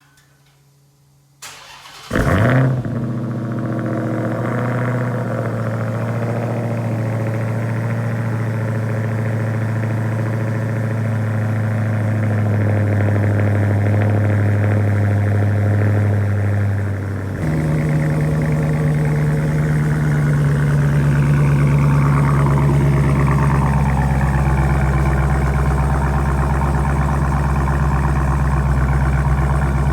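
Cold start of a 2016 Hellcat's supercharged 6.2-litre HEMI V8 through Vibrant mid mufflers: the starter turns briefly about a second and a half in, the engine catches with a short rev flare, then settles into a loud, steady cold high idle. About 17 seconds in the exhaust note changes abruptly to a deeper drone and holds steady.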